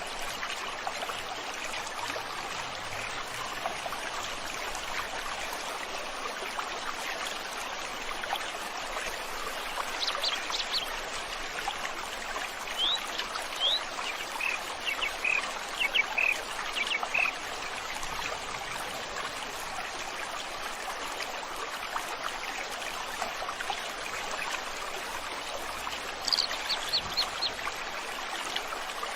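Steady rush of a flowing river stream, with short runs of quick high bird chirps about a third of the way in, through the middle, and again near the end.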